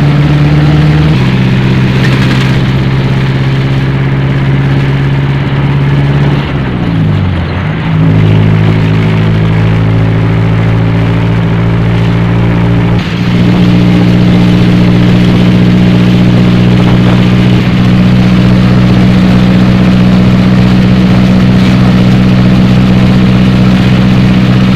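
Vehicle engine running at a steady speed, loud and droning; about seven seconds in its pitch slides down, then it settles at a new steady note.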